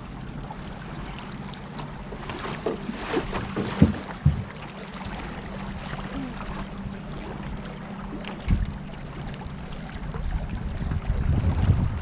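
Kayak paddling on a river: paddle strokes wash and splash in the water, with a few sharp knocks about four seconds in and again about eight and a half seconds in. A low steady hum runs underneath, and there is more low rumbling near the end.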